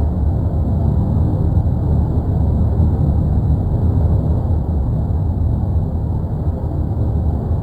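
Volcanic eruption: a deep, steady rumble from the erupting La Palma volcano, with no distinct blasts.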